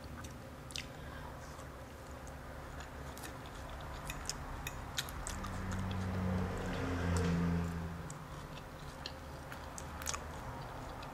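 Close-miked eating of fried mojarra fish: chewing and biting with small scattered clicks as the meat is picked off. About five seconds in, a low closed-mouth "mm" hum lasts for about three seconds.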